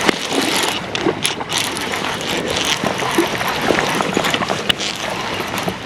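Spinning reel clicking and whirring in rapid ticks as a hooked trout is played and reeled in, with continuous rustling noise.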